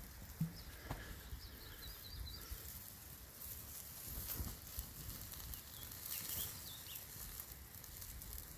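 Quiet outdoor ambience with small birds chirping in short runs, about two seconds in and again around six to seven seconds, and a few light knocks near the start.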